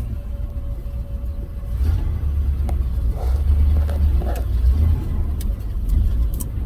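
1970 GMC pickup's engine running as the truck drives, a steady low rumble that grows louder about two seconds in. It is running on a newly replaced mechanical fuel pump, the old one having been bad.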